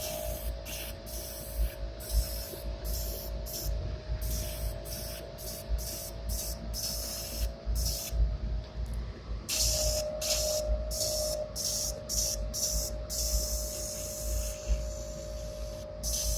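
Airbrush spraying paint stripper in many short, irregular bursts of hiss. A steady hum runs underneath, breaking off briefly about nine seconds in.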